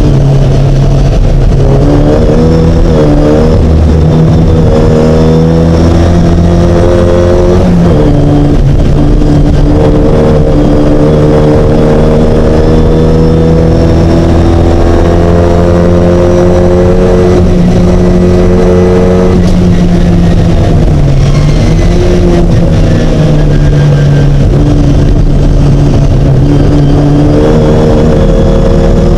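Racing Mini's engine running hard and loud, its pitch climbing steadily and dropping back about eight and twenty seconds in as the revs change.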